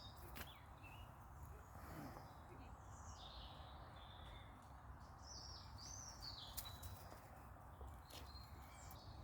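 Faint birdsong: several birds chirping on and off over a low, steady background rumble.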